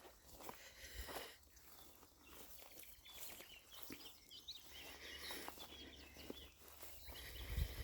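Faint birdsong: short, quick chirping notes from about two and a half to five and a half seconds in, over occasional footsteps on the path and a low rumble of wind on the microphone.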